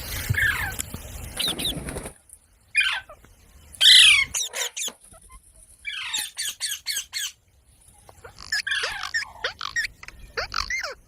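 Parrot calling in bursts of short squawks and chirps that sweep in pitch. The loudest call comes about four seconds in, and a quick run of short chirps follows around six to seven seconds.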